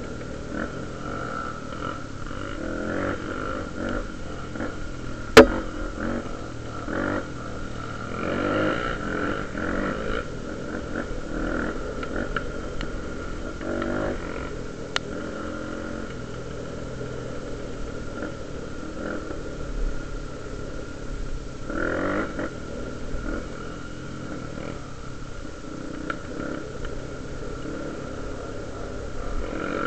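Honda Tornado trail motorcycle's 293 cc single-cylinder four-stroke engine running, its revs rising and falling, with one sharp loud click about five seconds in.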